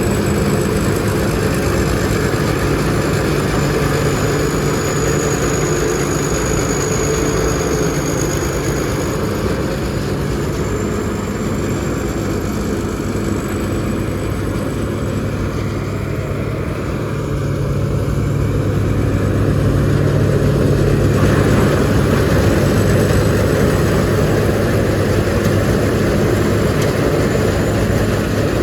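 Rice combine harvester running steadily under load, a deep engine drone with a thin high whine above it. It gets louder and fuller about three-quarters of the way through.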